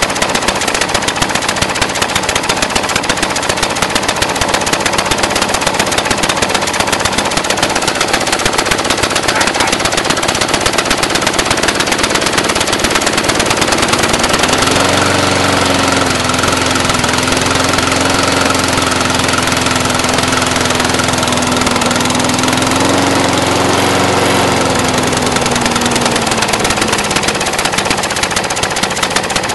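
Single-cylinder Briggs & Stratton 450 lawn mower engine idling very rough, a rapid stream of uneven popping beats. It is the sound of the fault the owner is chasing: the engine belches black smoke, fouls its spark plug black with soot and does not answer the throttle. About halfway through, a steady hum joins for several seconds and then fades.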